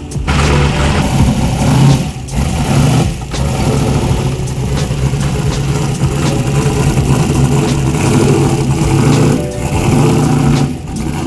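A Dodge Challenger drag car's engine running loud and steady, with a few brief dips in revs.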